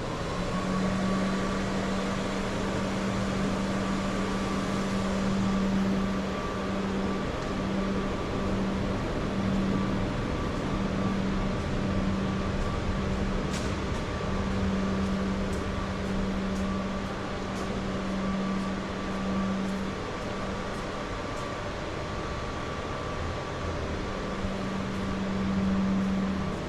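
A steady machine hum: a low drone with a fainter, higher steady whine over a hiss of city noise. The drone wavers, drops away for a few seconds after the middle, and returns near the end.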